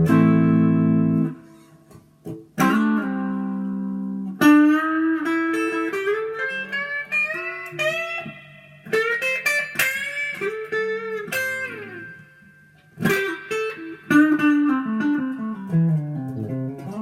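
Gibson Flying V electric guitar played through an amp in a bluesy style: ringing chords at the start, then single-note lead lines with string bends, and a descending run of notes near the end.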